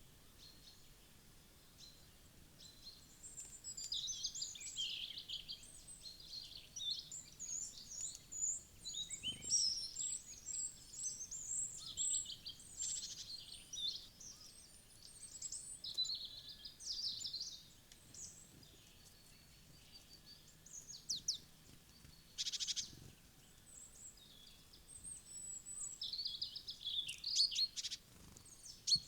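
Wild songbirds chirping and calling, many short high chirps and quick trills overlapping in bursts, with a few brief pauses.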